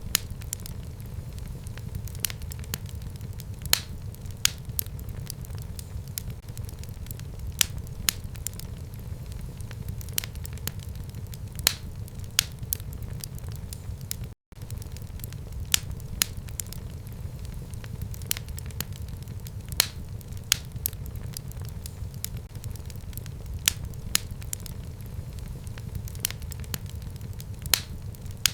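Fire burning in a home fireplace: a steady low rumble of the flames with irregular sharp crackles and pops. The sound cuts out for an instant about halfway through.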